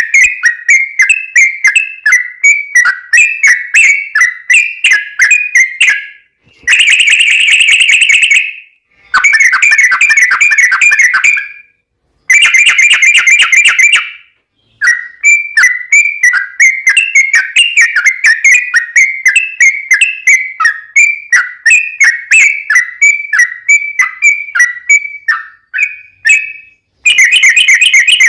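Yellow-vented bulbul (trucukan) song: strings of bubbly, whistled chirps, several a second, broken by faster rolling runs. Short silent gaps sit between the stretches of song.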